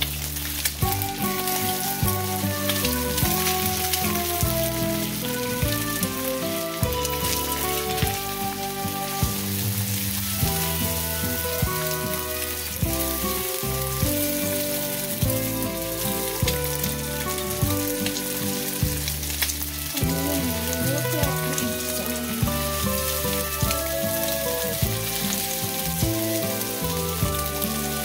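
Eggs sizzling in a hot frying pan as they are broken up and scrambled with a silicone spatula, with background music playing throughout.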